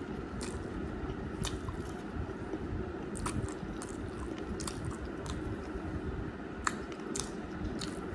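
A man chewing a mouthful of rice and curry, with scattered wet mouth clicks and smacks and the soft squish of rice being mixed by hand.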